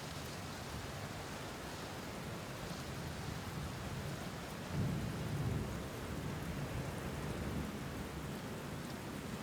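Steady rainfall, with a low rumble of thunder swelling about halfway through and fading away.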